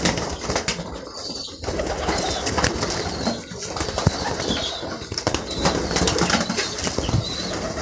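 Many pigeons flapping their wings and scrambling as they crowd onto a person, a busy run of wingbeats and scuffles.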